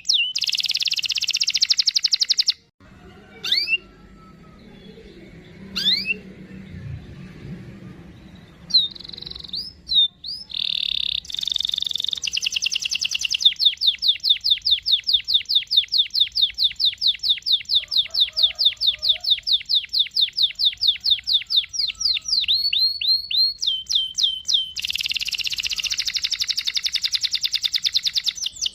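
Domestic canary singing: fast trills of rapidly repeated high notes, which break off after about three seconds into a few separate upward-sweeping chirps. About ten seconds in the bird starts a long unbroken roll of evenly repeated notes lasting some ten seconds, and another dense trill comes near the end.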